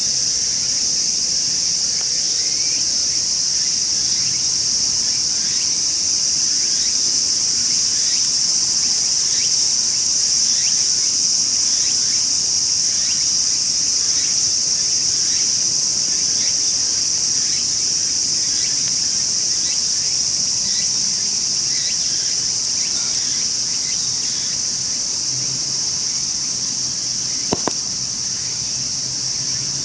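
Summer insects chorusing in a steady, high-pitched continuous drone, with one sharp click near the end.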